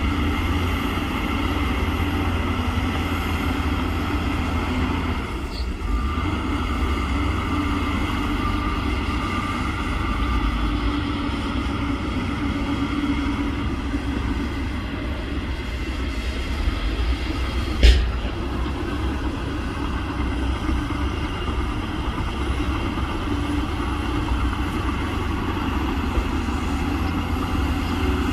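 Heavy diesel construction machinery running steadily with a deep rumble, and one sharp metallic knock about two-thirds of the way through.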